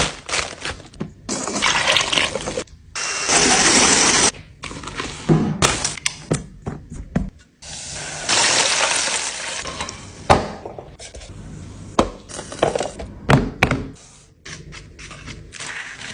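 Kitchen cooking noises: repeated clattering knocks of utensils and cookware, with a few bursts of hissing that last a second or two each.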